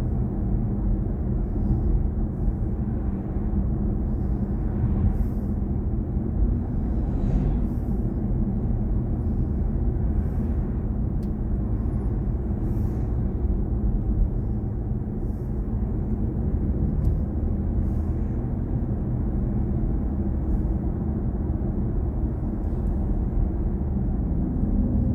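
Steady low tyre and road rumble inside the cabin of a moving BMW i4 M50, an electric car with no engine note.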